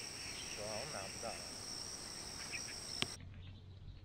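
Insects chirring steadily at two high pitches, cutting off suddenly about three seconds in. A short wavering call is heard about a second in.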